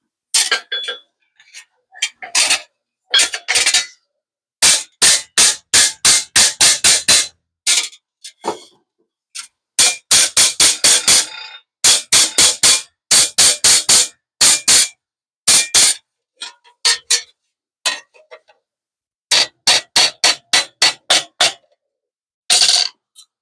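Repeated sharp metallic strikes with a slight ring, about four a second, in bursts separated by short pauses, as in hammering or tapping on metal.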